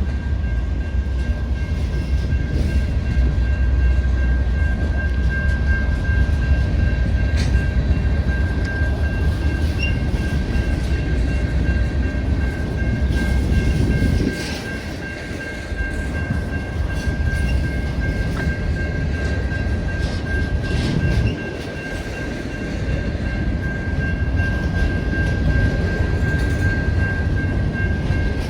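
Freight train cars rolling past with a heavy, steady rumble and a thin, steady high-pitched whine over it. The rumble drops briefly twice, about halfway through and again near three-quarters of the way.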